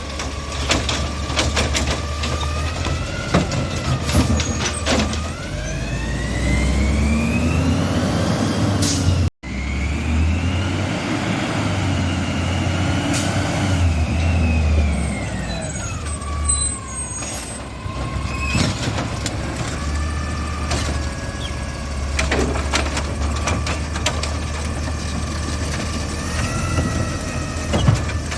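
Garbage truck at work: its engine runs steadily, revs up in a rising whine, then winds back down, with repeated clanks and knocks. There is a sudden break about a third of the way in.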